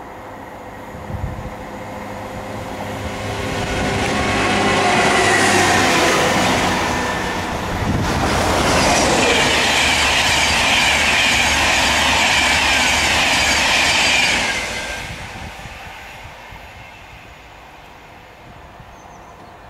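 A train passes at speed on the line: its noise builds, stays loud for about ten seconds with the clatter of wheels on rail, then dies away. Through the second half of the pass a high squeal from the wheels rides over the rumble.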